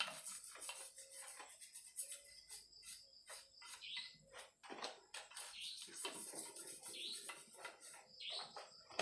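Soft toothbrush scrubbing the aluminium crankcase of a Yamaha RX-King engine, in short irregular scratchy strokes, to loosen caked dirt and grit. From about halfway through, a bird chirps several times at a steady pace.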